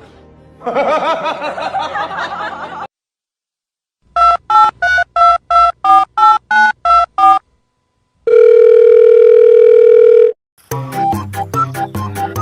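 Telephone keypad dialing: eleven short two-tone beeps in quick succession, then a steady tone lasting about two seconds. A wavering, pitched sound comes before the dialing, and music starts near the end.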